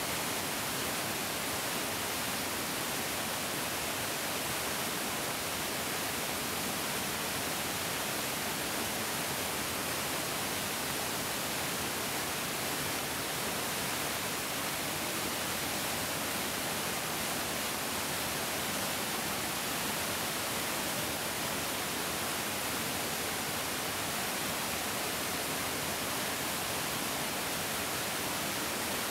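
A larger mountain stream rushing and flowing steadily: an even, unbroken hiss of water with no changes or separate splashes.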